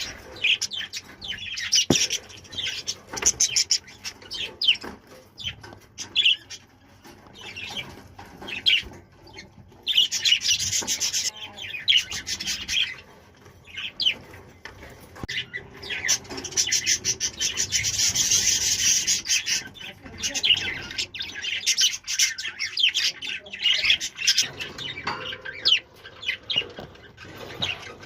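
Budgies chirping and chattering in quick, high-pitched calls, with denser bouts of chatter about ten and sixteen seconds in.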